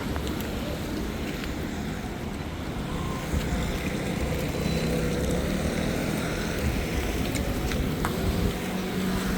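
Busy city street traffic: vehicles running past on a wet road with a steady hiss and rumble. Wind noise on the microphone.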